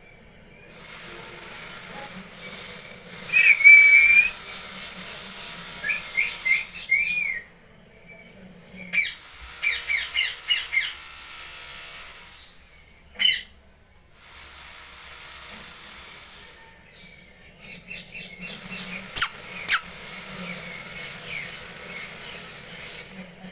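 Parrots calling in short bursts of chirps and squawks over a steady hiss. A held, wavering call comes a few seconds in, then clusters of quick chirps. Two sharp shrill calls come near the end.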